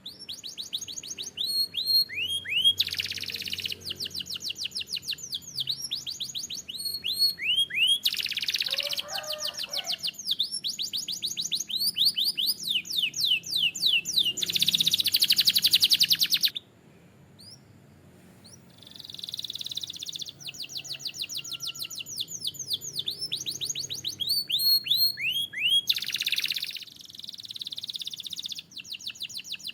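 Domestic canary singing: fast trills of repeated falling whistled notes broken by denser buzzing rolls, with a brief lull just after halfway.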